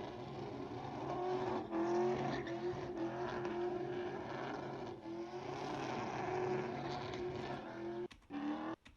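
A truck engine held at high revs during a burnout, its pitch wavering up and down as the throttle is worked, over a hiss of spinning tyres. Near the end the sound breaks up in a few short gaps.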